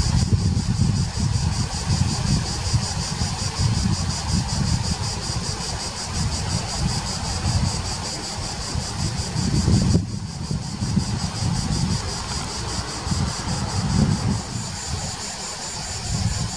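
Shallow mountain stream rushing over rocks, with gusts of wind buffeting the microphone as a low rumble and insects chirping steadily in the background.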